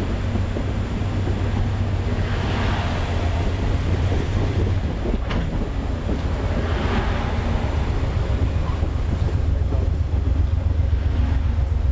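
Stainless-steel passenger coaches rolling past close by: a steady low rumble of wheels on rail with a rush of air. The air swells twice, and there is one sharp click about five seconds in.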